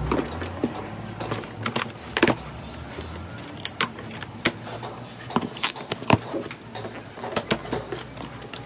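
Cardboard shipping box and its packaging being handled and opened: an irregular run of sharp clicks, knocks and rustles.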